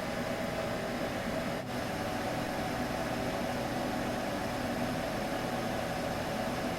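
Steady sleep-aid white noise with a constant hum, unchanging except for a brief dip about one and a half seconds in.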